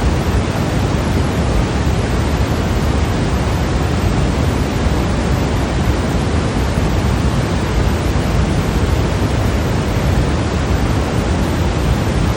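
Steady, unbroken white noise for sleep: an even hiss-like rush, heavier in the low end, with no change or pattern.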